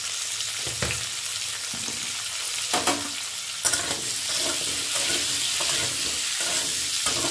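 Pumpkin and potato cubes sizzling in hot oil in a metal kadhai. From about halfway in, a wooden spatula knocks and scrapes against the pan as the pieces are stirred.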